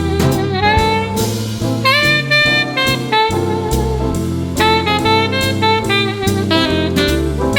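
Saxophone playing a jazz melody line with held notes and bends, over a backing band with walking bass and drum kit.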